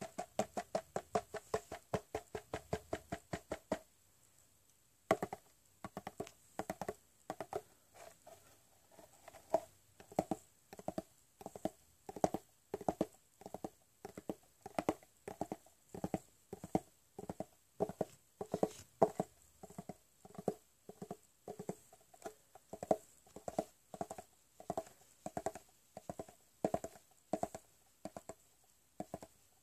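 Close-miked chewing of a crunchy corn snack: quick crunches for the first few seconds, a brief pause about four seconds in, then steady chews about twice a second.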